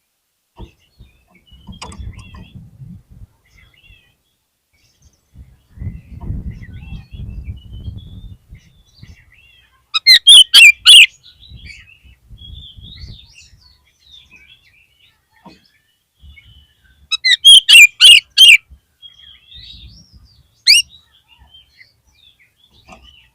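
Oriental magpie-robin (kacer) singing: two loud bursts of rapid, sharp notes, about ten seconds in and again around seventeen seconds, with softer warbling between and one sharp note near the end. A low rumble runs under the quieter stretches early on.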